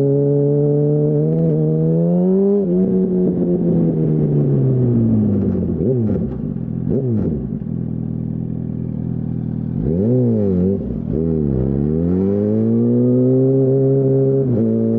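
A 2008 Yamaha R1's inline-four through a Termignoni full exhaust. It holds a steady pitch, rises briefly, then falls away as the bike slows, with two quick rev blips about six and seven seconds in. It sits low for a few seconds, then the revs climb and dip a couple of times and pull up steadily before a sharp drop at a gear change near the end.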